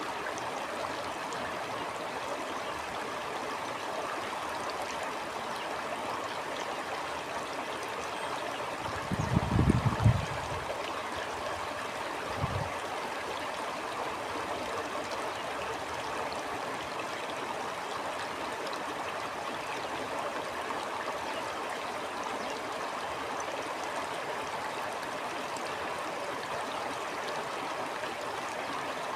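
A stream flowing steadily, an even rushing hiss. About nine seconds in, a low rumble lasting over a second rises above it, and a second, shorter one follows a few seconds later.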